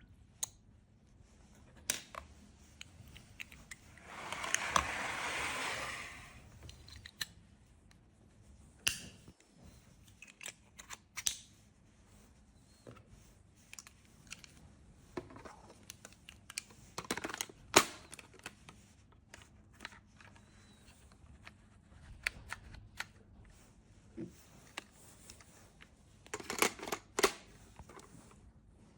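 Plastic parts of an electric cat water fountain being handled and fitted together: scattered clicks, taps and knocks, with a denser run of clicks near the end. About four seconds in, a steady rush of noise lasts about two seconds.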